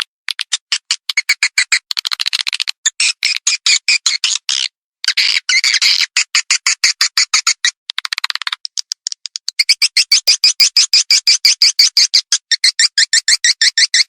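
Swiftlet calls of the kind played to lure swiftlets to a nesting house: rapid trains of high chirping clicks, broken by short pauses. About two thirds of the way in, the chirps run faster and denser without a break.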